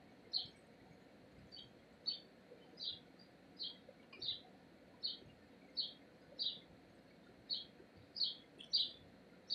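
A bird chirping repeatedly in short high notes, about one or two a second and sometimes in quick pairs, faint over a low background hiss.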